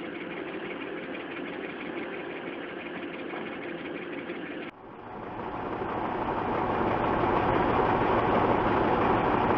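Heavy vehicle engines running in two back-to-back clips. The first is a steady engine run; about halfway through it cuts abruptly to a louder, rougher engine sound that builds over a couple of seconds, as of a vehicle under load.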